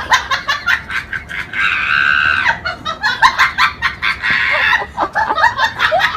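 An animal calling: a rapid run of short, squawking calls with one longer held call about two seconds in.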